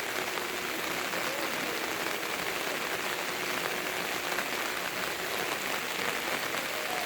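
Rain falling steadily, an even, unbroken hiss of heavy monsoon rain.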